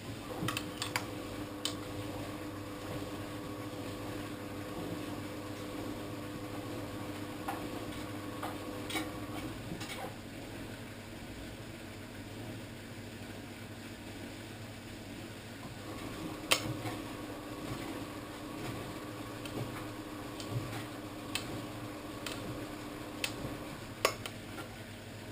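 Old washing machine in its wash cycle: the motor hums as it turns the drum for about ten seconds, stops, then starts again for another stretch, with scattered clinks and knocks as things tumble inside the drum.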